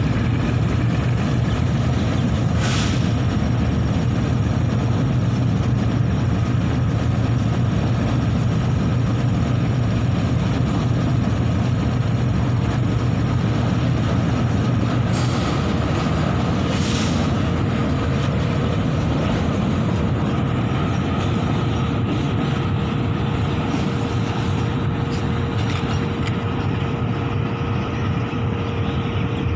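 Pakistan Railways freight train's covered wagons rolling past on the rails: a steady loud rumble that eases about halfway through, with a few brief high hisses.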